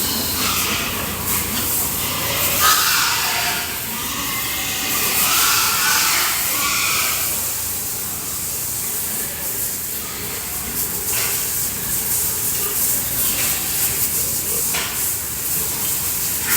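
Steady hiss of water spraying from a hose as pigs are washed down.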